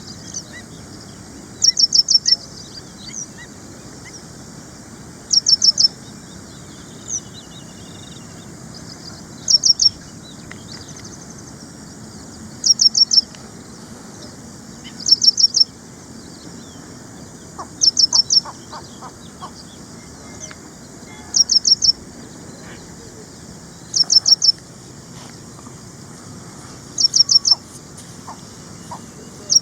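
Ashy prinia calling: short bursts of three to five quick, high notes, repeated every few seconds, with fainter chirps between.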